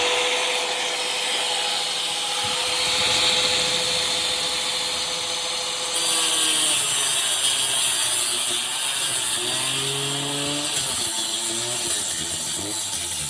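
Angle grinder running at full speed after a spin-up, then cutting into a window air conditioner's radiator about six seconds in. The grinding is harsh and loud, and the motor's pitch drops and wavers under the load.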